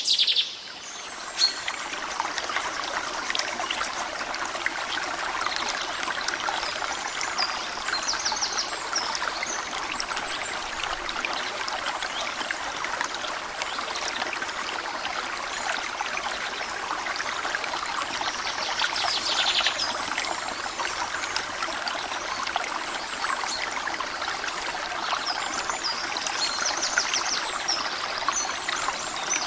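Water running steadily, a continuous trickling flow such as irrigation water pouring into a channel or basin.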